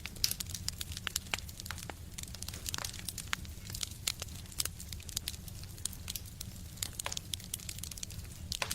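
Wood fire crackling in a stove: frequent irregular pops and snaps over a low steady rumble.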